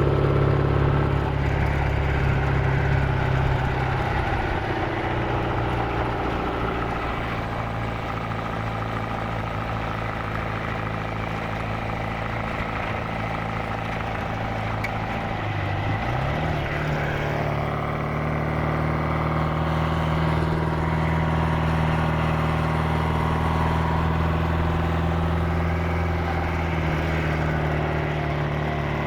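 Supercharged 1,328 cc MG XPAG four-cylinder engine of a 1938 MG TA Special race car, running at a steady speed. The note eases off a few seconds in, then picks up and rises slightly in pitch about sixteen seconds in, holding steady after that.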